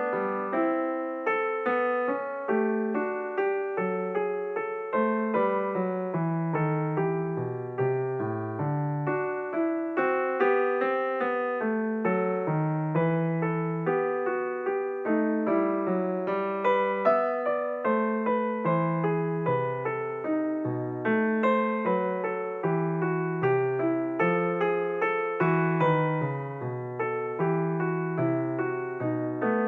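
Background piano music: a calm, steady run of single notes over a slow-moving bass line.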